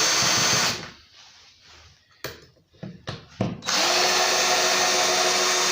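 Power drill-driver running at steady speed, backing out the screws on a chainsaw's cover. It stops about a second in, a few sharp clicks follow, and a second run starts a little past halfway.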